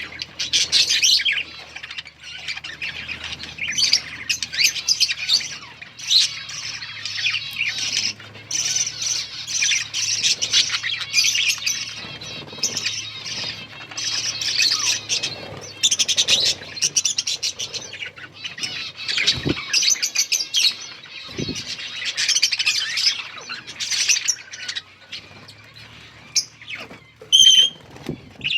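A colony of budgerigars chirping and chattering continuously, many birds calling over one another, with one clear whistled note near the end.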